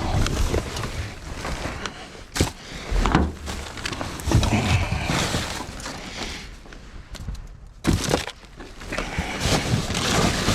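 Rummaging through trash in a dumpster: rustling bags and boxes with irregular knocks and clatters, quieter for a moment toward the end.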